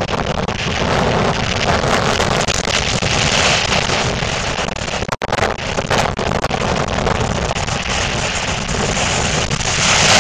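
Storm wind blowing hard across the microphone over the sea, a loud even rushing noise with crackling, broken by a brief dropout about five seconds in.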